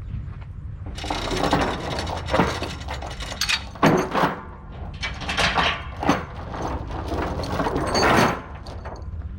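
Metal rattling, clanking and ratcheting from about a second in until just past eight seconds, typical of tie-down gear being worked loose, over a steady low engine hum.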